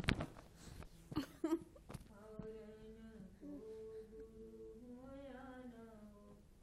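A few sharp knocks in the first second and a half, then a high voice humming a wavering tune until near the end.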